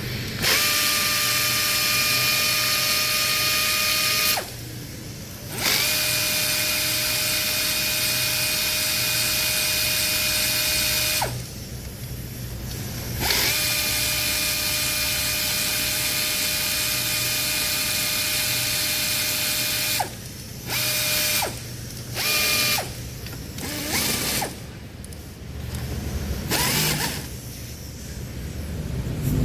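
Power tool running at a steady speed with a constant whine over a hiss, in three long runs of several seconds each, then a few short bursts near the end.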